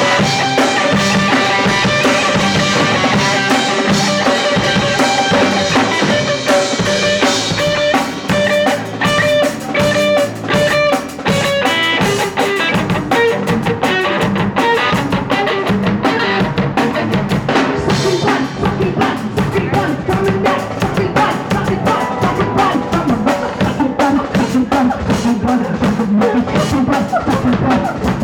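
Punk rock band playing live: drum kit pounding a fast beat under guitar.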